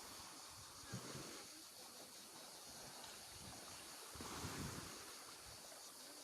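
Faint outdoor noise of wind and water, with a short knock about a second in and a louder rush of noise around four seconds in.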